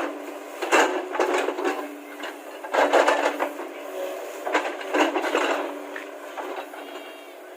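Excavator working: a steady machine hum under irregular scraping and clanking bursts, several times over.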